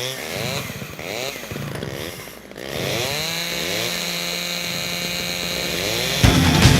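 Chainsaw sound effect in a heavy metal recording: the saw revs up and down several times, then holds a steady high rev. Near the end the full band crashes in loudly.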